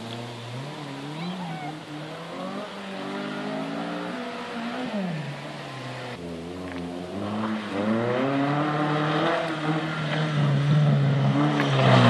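A small rally car's engine revving hard on a dirt rallycross course, its pitch climbing and dropping with each gear change and lift. It grows louder near the end as the car comes closer.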